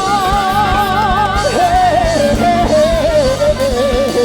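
Live band playing a pop-rock song, with a held, wavering vocal note that steps down in pitch, over a steady drum beat and guitar.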